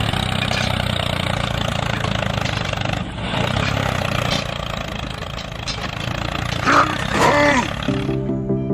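A small engine or motor running steadily, with a couple of short wavering pitched cries about seven seconds in, then music starts just before the end.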